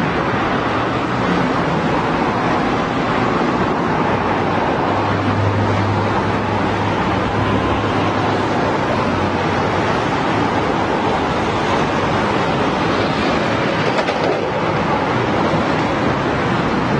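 Continuous road traffic: a steady wash of engine and tyre noise, with a low engine drone building about four seconds in and fading out after several seconds.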